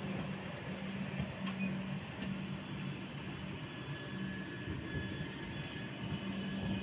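Indian Railways LHB passenger coaches rolling past at speed, with a steady rumble of wheels on rail. Faint high-pitched wheel squeal comes in now and then toward the middle.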